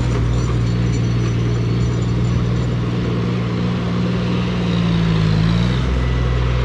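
Tractor diesel engine running steadily, its note dipping briefly about five seconds in and recovering.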